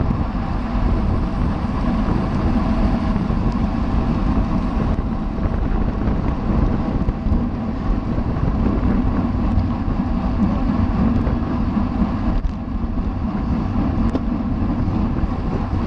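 Steady wind rush over the microphone of a camera carried on a racing bicycle at speed: a loud, continuous low rumble with no breaks.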